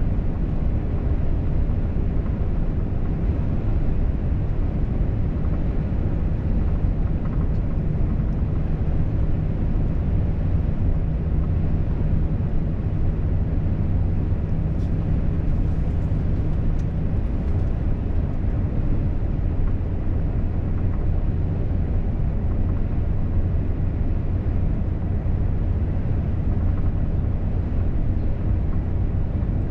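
Volvo FH truck driving at road speed: steady low engine drone with tyre and road noise. A steady low hum in the engine sound shifts lower in pitch about halfway through.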